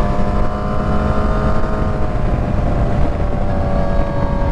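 Motorcycle engine running while riding, its pitch sagging slightly and then holding steady, over a heavy low rush of wind and road noise.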